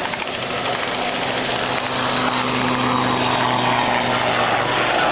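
Military turbine helicopter flying, a steady hum of engine and rotors with a thin high turbine whine drifting slowly down in pitch.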